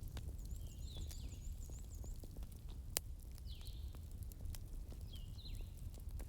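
Wood fire crackling, with a steady low rumble, scattered small snaps and one sharp pop about three seconds in. Short high chirping calls repeat over the top.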